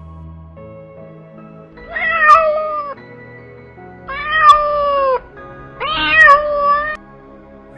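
A cat meowing three times, each meow about a second long, over soft background music.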